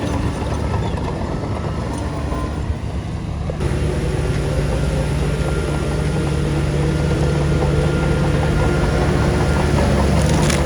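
Heavy diesel engine of earthmoving machinery running steadily. About three and a half seconds in the sound changes abruptly and the engine hum grows steadier and slightly louder.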